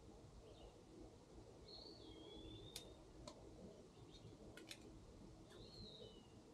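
Faint bird calls: two similar slurred whistles, each dipping from a high note to a lower one, about four seconds apart, with a few sharp clicks in between.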